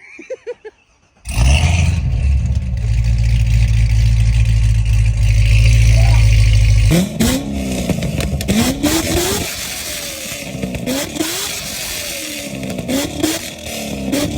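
Chevrolet Corvette ZR1's supercharged V8 starting up a little over a second in, then running loud and steady at a high idle. From about seven seconds in it settles somewhat quieter, with several short revs rising in pitch every second or two.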